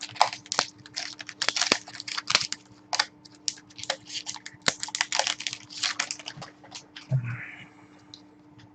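Typing on a computer keyboard: a quick, irregular run of key clicks that stops about seven seconds in, with a single dull knock as it ends.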